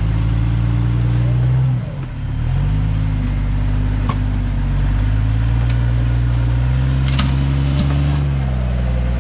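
Rock-crawler buggy's engine running at low revs under load while crawling over rock; the engine note drops briefly about two seconds in, then slowly climbs and eases off near the end. A few sharp knocks sound about four and seven seconds in.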